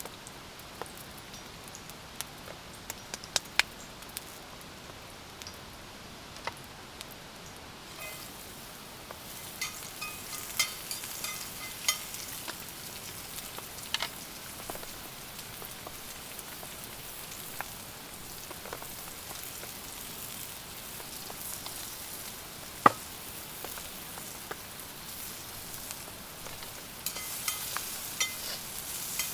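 Food sizzling in a pan over a campfire, a steady hiss with scattered pops and crackles that grows a little stronger after the first few seconds, with one sharp crack about two-thirds of the way through. Rain patters steadily underneath.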